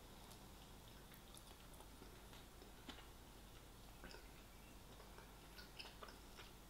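Faint chewing: a person's mouth working on food, with scattered small wet clicks and smacks.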